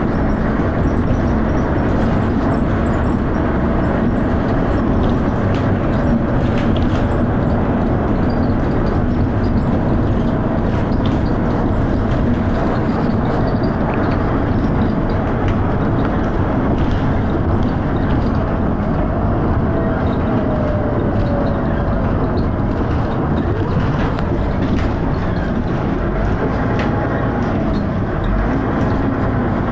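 Dennis Arrow bus's diesel engine running under way with loud, steady thrash, over a continuous rattle and road noise.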